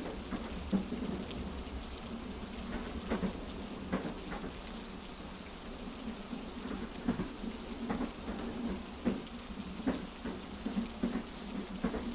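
Heavy rain falling steadily, mixed with the low rumble and irregular knocking of a train carriage on its tracks.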